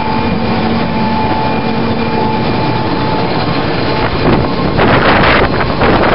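Helicopter running close by with a steady whine over the rotor noise, in strong wind buffeting the microphone. The whine fades out and the wind gusts louder from about four seconds in.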